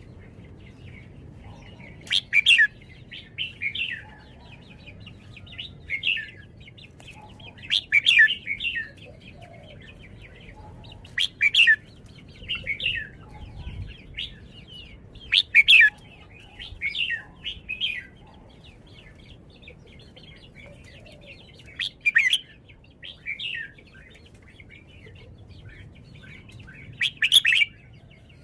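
Red-whiskered bulbul singing: short, quick warbled phrases in bursts every few seconds, some starting with a sharp loud note, with pauses between the bursts.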